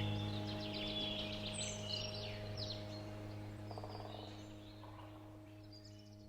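Small birds chirping over a sustained ambient music drone, with the chirps busiest in the first few seconds. Both fade out gradually.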